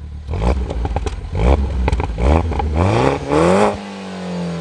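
2012 Mini John Cooper Works GP's turbocharged 1.6-litre four-cylinder engine revved through its twin centre exhausts in sport mode. It gives four quick blips of the throttle, then a longer rev that climbs to a peak about three and a half seconds in and falls back toward idle.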